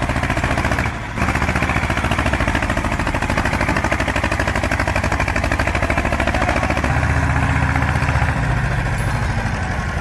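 Tractor engine running loudly with a rapid, even firing beat, dipping briefly about a second in.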